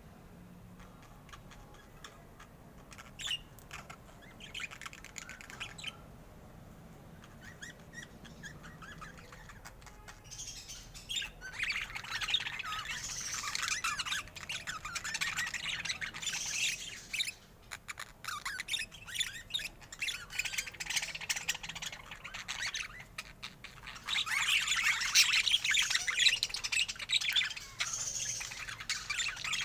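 Budgerigars chattering and chirping: a few scattered calls at first, then from about ten seconds in a dense, continuous warbling chatter with a couple of short breaks.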